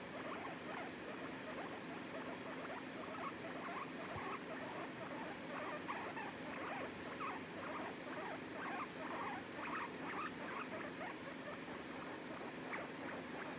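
Hair dryer running steadily with a low hum, under a dense stream of short, irregular high squeaks and chirps.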